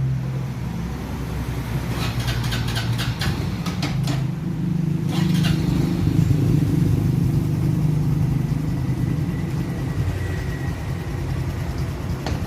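Honda Wave 110i's single-cylinder engine running with an uneven note that swells about five seconds in, with a run of sharp clicks about two to three seconds in. The bike bogs and stalls when the throttle is opened, a fuel-delivery fault suspected at the fuel pump or injector.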